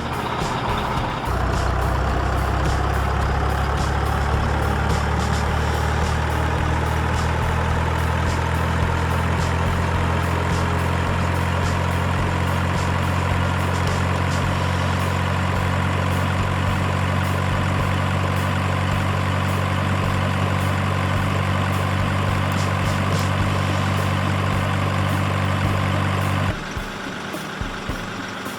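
Steady engine-like hum with a faint whine that rises slowly and light clicking over it. It starts about a second in and cuts off suddenly near the end.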